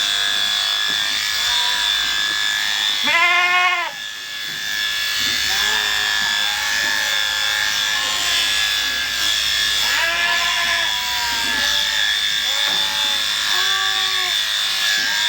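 Sheep bleating repeatedly, several calls at different pitches, with one loud wavering bleat about three seconds in. A steady high whine from electric shearing clippers runs underneath.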